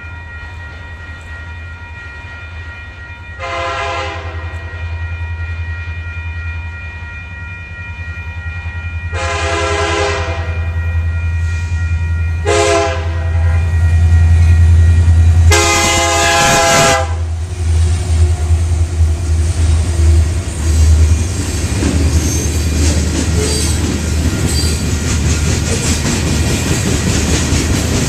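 Diesel freight locomotive approaching with a steady low engine rumble and sounding its horn in four blasts, long, long, short, long: the grade-crossing signal. After the last blast the train passes, and the noise of wheels and cars on the rails swells and stays loud.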